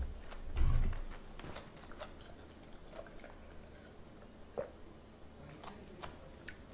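A person chewing a mouthful of food close to the microphone, with small mouth clicks throughout. There is a low thump about half a second in and a light knock a little after four and a half seconds.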